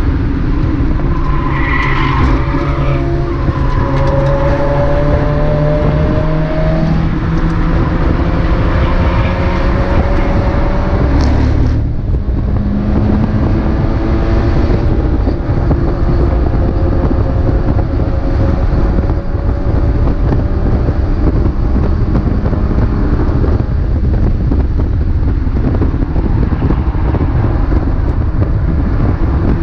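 Mazda MX-5 race car's four-cylinder engine at racing speed, its pitch climbing as it pulls through the revs, with a brief lift and drop in pitch about twelve seconds in before it pulls again.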